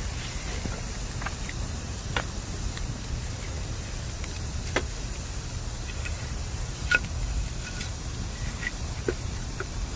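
Bamboo burning in a campfire: a steady low rumble of the fire with scattered sharp crackles and pops, the loudest about seven seconds in.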